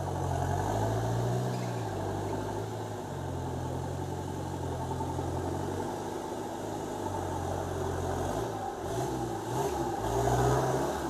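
Off-road 4x4's engine running at low revs under throttle, its pitch stepping up and down several times as the driver works the throttle, and briefly rougher near the end.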